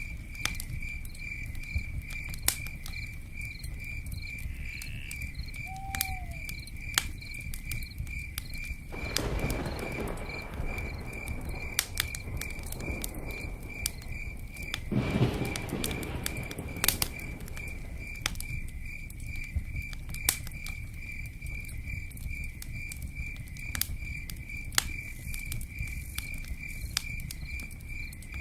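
Campfire crackling with scattered sharp pops over a low rumble, while a cricket chirps in a steady, evenly pulsed high trill. Twice, about a third and about halfway through, a louder rushing swell rises and fades.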